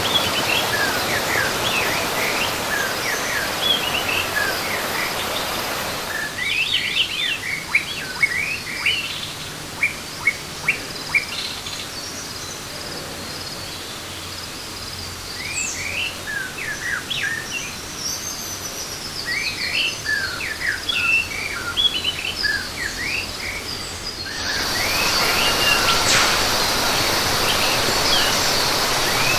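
Many birds chirping and calling in quick short phrases over a steady background hiss. The hiss drops away abruptly about six seconds in and comes back shortly before the end, when a steady high-pitched drone joins the birdsong.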